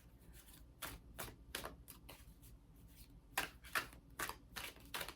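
Tarot cards shuffled by hand: a faint, irregular run of soft card flicks and riffles.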